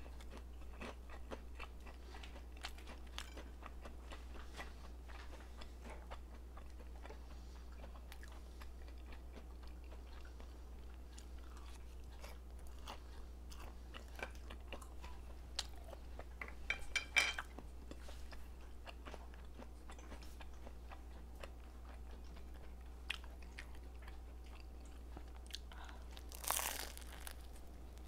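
Close-miked eating sounds: a person chewing and crunching food, with faint light clicks throughout. A cluster of louder clicks comes about two-thirds of the way through, and a louder crunchy bite near the end.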